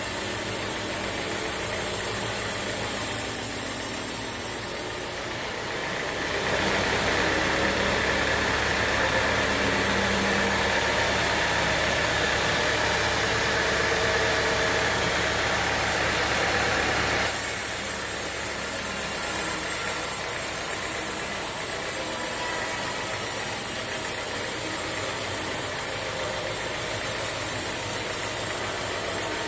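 Band sawmill machinery running steadily, with a louder, fuller stretch of about ten seconds in the middle before it drops back to the steady running sound.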